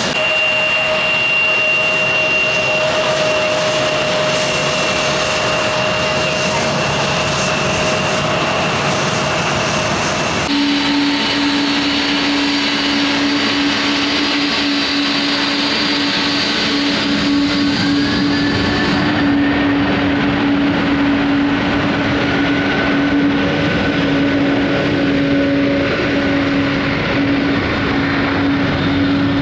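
Airliner engines running with a steady loud rush and held whining tones. The sound changes abruptly twice, where different aircraft clips are cut together.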